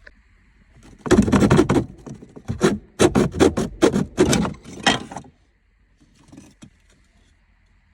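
A run of loud scraping and rustling strokes lasting about four seconds, from parts and trim being handled inside the car, then a few faint clicks.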